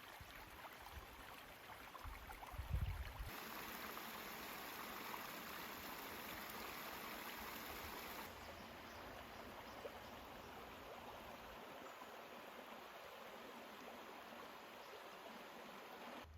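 Mountain stream flowing steadily, an even rushing of water that grows louder for about five seconds from around three seconds in, then settles back. A couple of low thumps come just before it swells.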